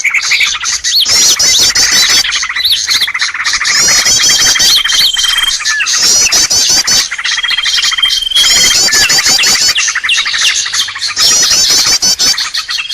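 Bird-lure recording (suara pikat): a loud, dense chorus of many small birds chirping and squawking, with quick runs of high chirps that come back every few seconds and a steady trill in between.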